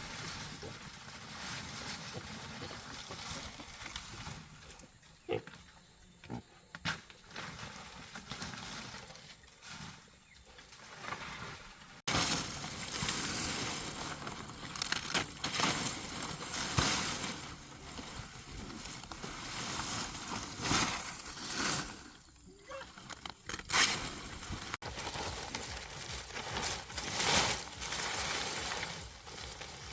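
Pigs grunting, in irregular short bursts.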